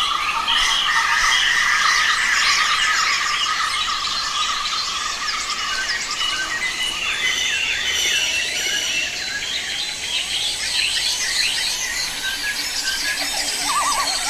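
Many birds chirping and calling at once, a dense chorus of quick high notes. A steady insect buzz runs under it through the first half.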